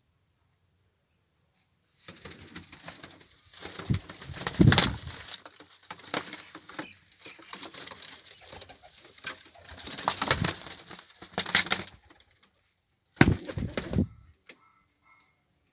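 Pigeons flapping their wings in a long stretch of noisy flurries, followed by one short flurry near the end.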